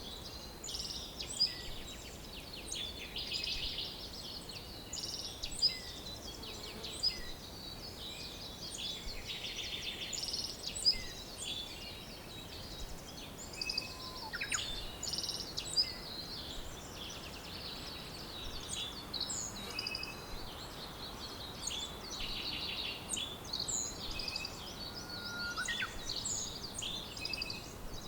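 Several songbirds singing and chirping at once, a dense mix of short chirps, trills and whistles, over a steady background hiss.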